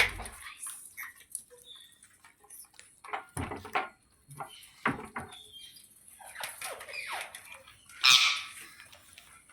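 Pet ringneck parrot making scattered short chirps and calls, with one louder call about eight seconds in.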